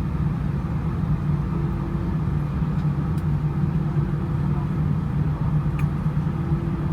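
Steady drone of an airliner's cabin, a constant low hum with no change in pitch or level.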